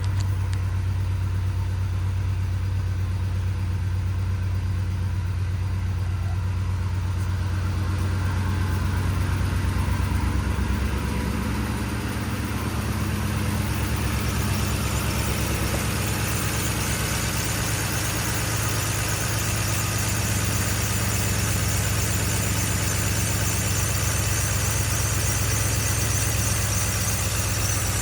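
2010 Ford F150's 4.6-litre V8 engine idling steadily, briefly a little louder about ten seconds in.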